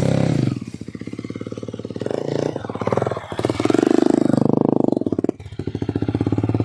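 Motorcycle engine running with its revs rising and falling. It is loudest about four seconds in and dips briefly a little after five seconds.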